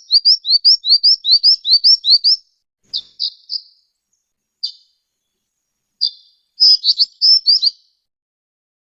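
Black-winged flycatcher-shrike (jinjing batu) calling: a rapid run of high, upward-sweeping chirps, about five a second, then a few scattered short notes, and a second rapid run late on.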